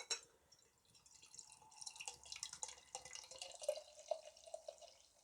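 Imperial stout being poured from a can into a glass, a trickling pour with many small splashes starting about a second in, after a sharp knock at the very start.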